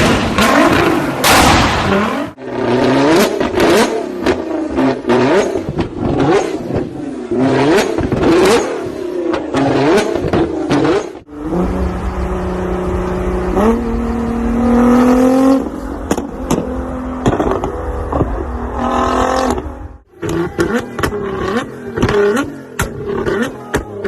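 Modified car exhausts in a run of short clips: loud crackling bangs at first, then rapid repeated throttle blips. A steadier engine note follows that jumps up in pitch, and there is more quick blipping after a sudden cut near the end.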